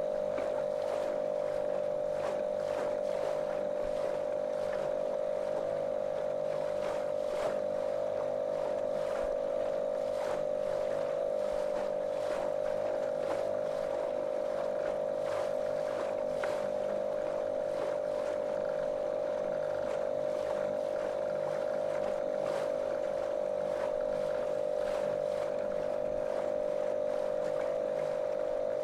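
Small motorboat's motor running at a constant speed: a steady, monotonous drone with one strong unchanging pitch, and faint irregular ticks and splashes on top.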